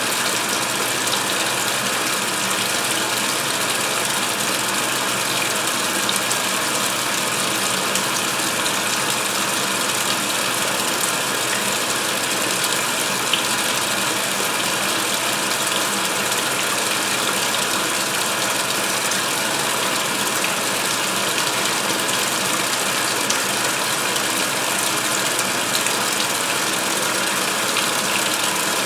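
2016 Speed Queen top-load agitator washer filling with water for the rinse: a steady rush of water pouring into the tub.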